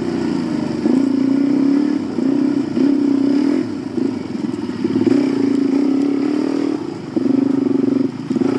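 Suzuki DR-Z400 dirt bike's single-cylinder four-stroke engine revving in repeated bursts, the throttle opened and eased off every second or two.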